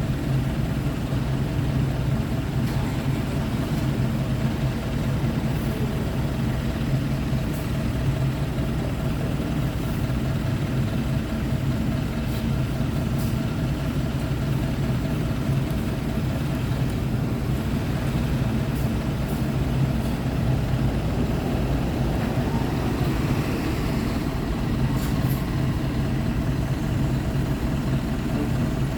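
Isuzu Erga city bus's four-cylinder diesel engine idling steadily.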